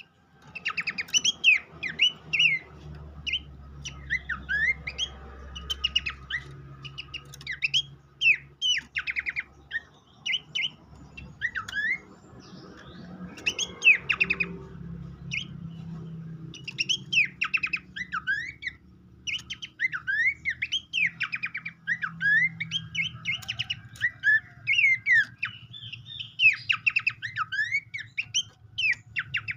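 Abbott's babbler (pelanduk semak) song used as a lure recording: quick series of sharp, sweeping chirps and whistles, repeated in bursts with short gaps, over a faint low hum.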